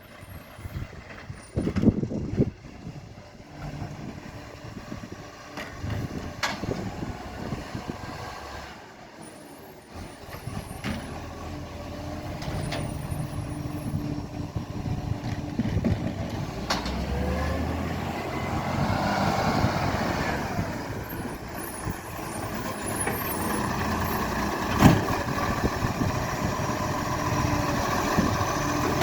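Diesel garbage truck engine running and growing louder as the truck draws near, with air-brake hissing and a few sharp knocks. The loudest knock comes near the end.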